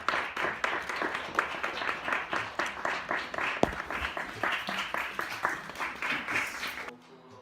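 Small audience clapping steadily, a dense patter of many hands, which cuts off abruptly near the end.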